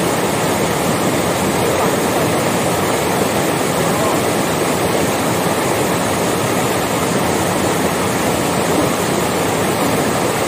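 Steady, loud rush of falling water from a waterfall, unchanging throughout.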